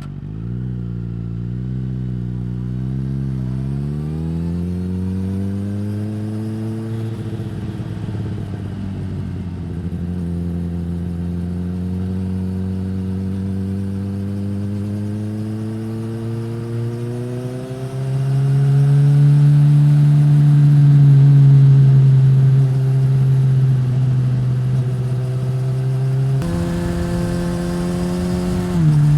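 2015 Suzuki GSX-S1000 inline-four engine through a Yoshimura R-11 slip-on exhaust, pulling through the gears. Its pitch climbs and drops several times as the throttle opens and it shifts, and it gets louder about two-thirds of the way through.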